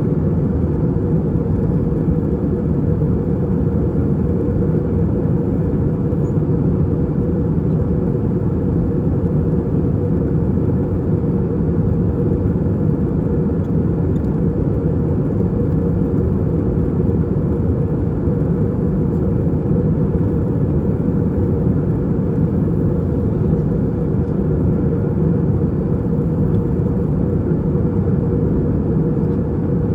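Steady cabin noise of an Airbus A320-232 in climb, heard from a rear economy window seat: a constant low rumble from its IAE V2500 turbofan engines and the airflow over the fuselage, with a faint steady hum above it.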